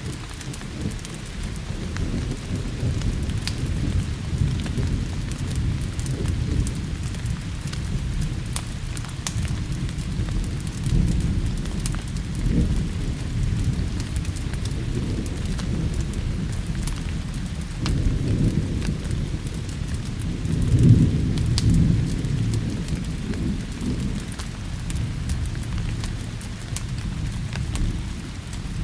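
Steady rain with rolling thunder that swells and fades several times, loudest about two-thirds of the way through, over scattered sharp ticks.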